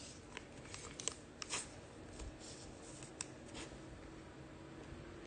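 Trading cards and pack wrappers being handled: a few soft clicks and short rustles, the sharpest about a second in and again a little after three seconds, then it goes quieter.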